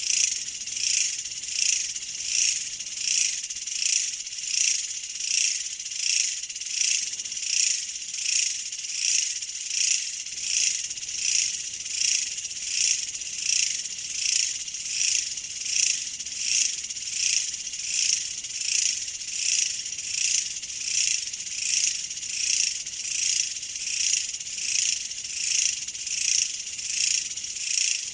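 A chorus of insects, cricket-like, trilling high and steady, pulsing evenly about once a second.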